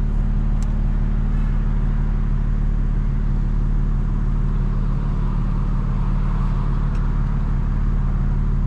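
BMW M4 Competition's straight-piped S58 twin-turbo inline-six running at a steady cruise, a constant low exhaust drone over road noise with no revving.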